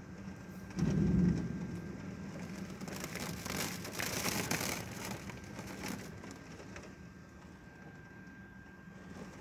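Thunder: a sudden low clap about a second in, then rumbling that swells again a few seconds later and fades, over steady heavy rain.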